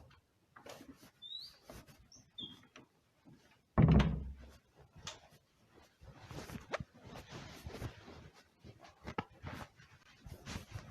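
Scattered knocks and rustling, with two brief high squeaks a second or two in and one loud thump about four seconds in.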